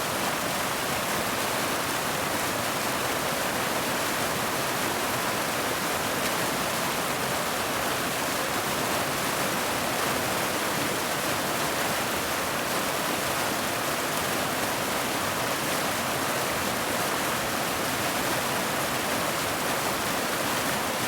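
Rushing water of a stream or waterfall: a steady, unbroken roar.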